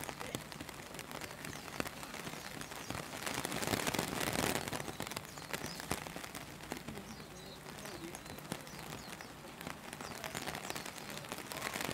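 Steady rain falling, with many separate drops ticking through the hiss and a louder swell of hiss about four seconds in.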